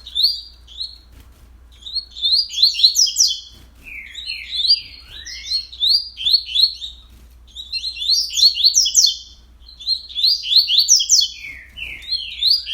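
Coleiro (double-collared seedeater) singing its short, fast song again and again, about six phrases with brief pauses between them: quick high notes with a few lower slurred notes. This is the rapid-fire delivery of a 'velocista' singer whose songs are counted for tournaments.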